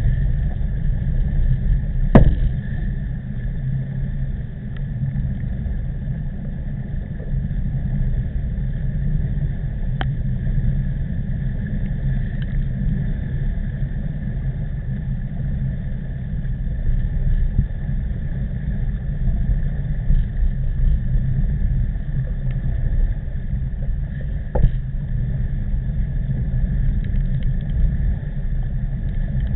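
Wind buffeting the microphone of a camera on a moving road bicycle, a steady low rumble with a faint even whine above it. A sharp knock about two seconds in and another later on, like the bike jolting over a bump.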